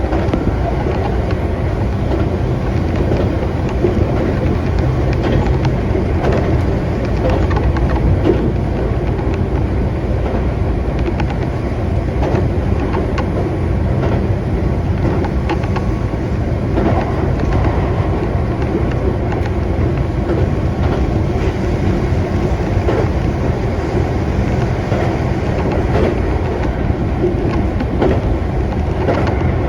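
Keihan electric train running along the line, heard from inside the car: a steady rumble of wheels on rails with faint scattered clicks.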